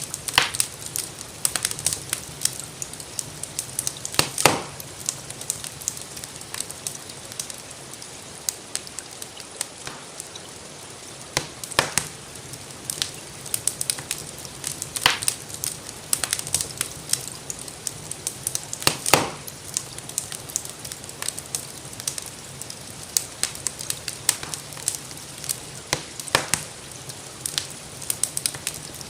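Crackling wood fire: many small crackles and about six louder, sharp pops at irregular intervals, over a steady soft hiss of rain.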